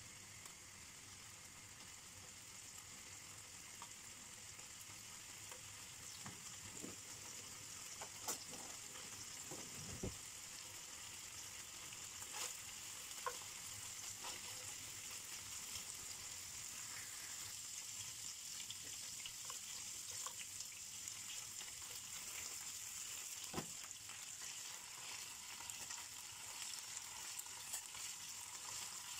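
Pieces of fresh salmon sizzling in hot oil in a nonstick frying pan, a steady hiss that grows a little louder over time. A few short clicks and taps come from the tongs against the pan as the pieces are turned.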